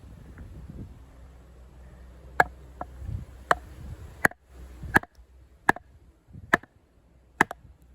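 Batoning a Condor Heavy Duty Kukri's 1075 carbon steel blade through a hard log: a run of about seven sharp knocks with a short ring, a little under a second apart, starting a couple of seconds in.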